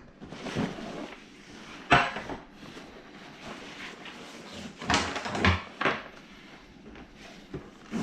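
Bag strap hardware and webbing being handled: a sharp clack about two seconds in, a cluster of knocks and rustling around five to six seconds in, with quieter rustling between.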